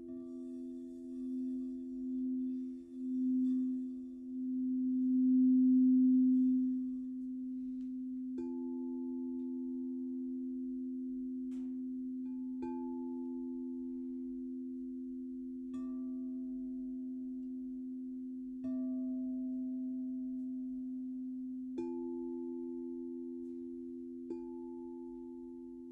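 Crystal singing bowls sounding two steady, sustained tones that swell and pulse in loudness for the first several seconds. After that, the bowls are struck softly six times, every few seconds, each strike adding a brighter ringing overtone that fades away.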